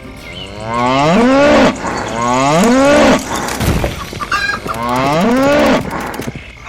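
A cow mooing three times, each moo about a second long, rising and then falling in pitch.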